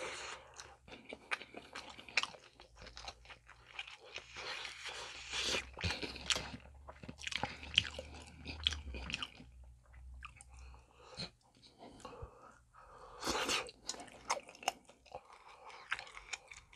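Close-miked biting and chewing of grilled chicken skewers (yakitori): a dense, irregular run of sharp mouth clicks.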